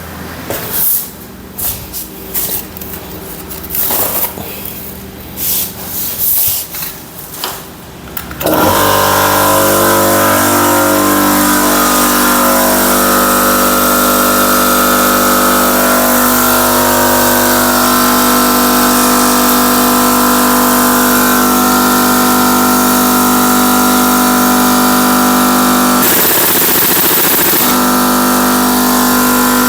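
Workshop air compressor kicking on about eight seconds in and running steadily to build up pressure, after some irregular clicks and knocks of handling. A short burst of air hiss comes near the end.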